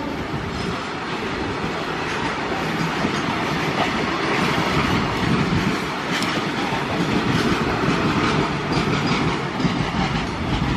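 Suburban EMU local train running at speed: a steady rumble of wheels on rail with scattered clicks as the wheels cross rail joints.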